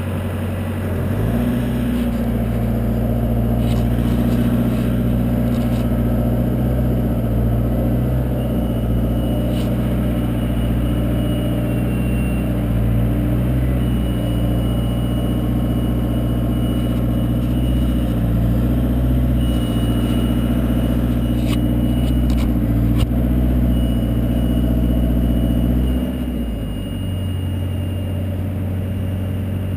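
Aerial boom lift's engine running steadily at raised speed, as when the hydraulics are working to lift the basket; it steps up about a second in and drops back to a lower idle about four seconds before the end.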